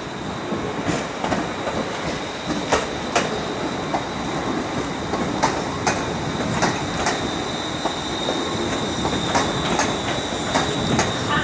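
Train rolling slowly over rail joints and points, its wheels clicking in pairs about every second, with a steady high-pitched wheel squeal over a low rumble.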